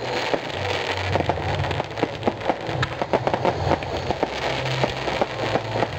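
Fireworks crackling: a rapid, unbroken stream of sharp pops and small bangs from a display of fountains and crackling effects, with a low rumble that swells and fades underneath.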